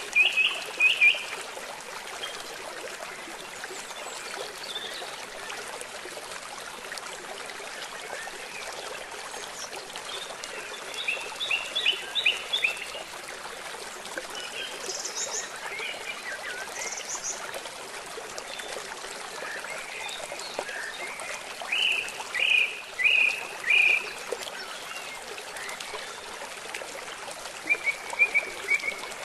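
Steady rush of running water from rain and a river, with small birds chirping in short bursts of quick repeated notes several times over it.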